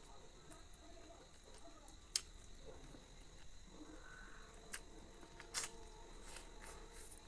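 Faint eating sounds from a person eating chicken: scattered wet mouth clicks and smacks, with one sharper click about two seconds in.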